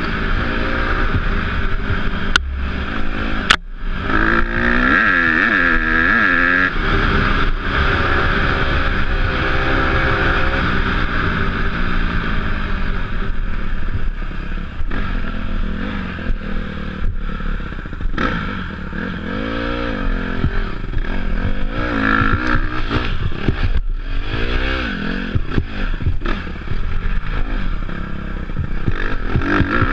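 Off-road dirt bike engine revving up and down over and over as it is ridden over rough ground, with rattle and clatter from the bike. Two sharp clicks come a few seconds in.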